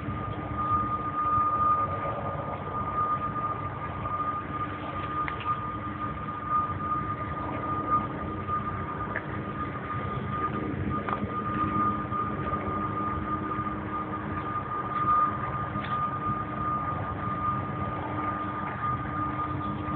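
Train running past, a steady rumble with a steady high-pitched tone over it.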